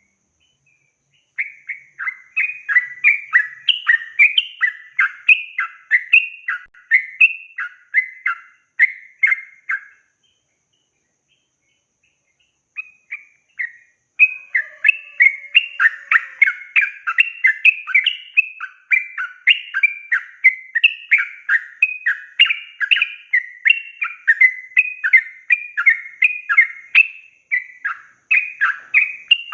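Yellow-vented bulbul (trucukan) singing a long, rapid, bubbly warbling song. The song breaks off for a couple of seconds about a third of the way in, then resumes and runs on without pause.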